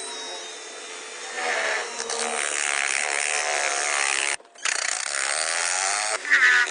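A handheld power tool running under load, its buzzing noise wavering in pitch, with a brief cut-out about four and a half seconds in.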